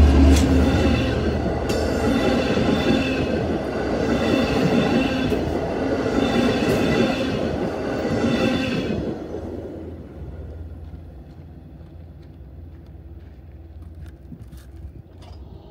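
Long Island Rail Road commuter train passing close by, its cars rumbling and its wheels clattering over the rails. The noise fades away after about nine seconds as the last car clears.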